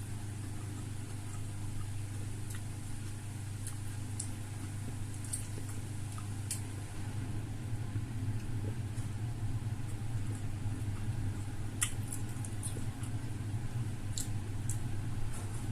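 Close-up eating sounds: scattered soft clicks and smacks of chewing, over a steady low hum.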